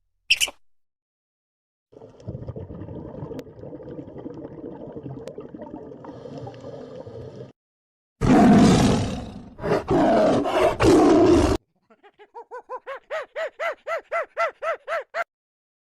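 A series of animal calls: a rough call lasting several seconds, then the loudest, a harsh call in two or three parts, then a fast run of short pitched calls, about four or five a second, growing louder.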